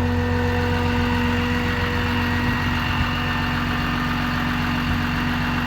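6.7-litre Cummins turbodiesel in a 2008 Dodge Ram 5500 idling steadily, with a constant whine over the low engine rumble.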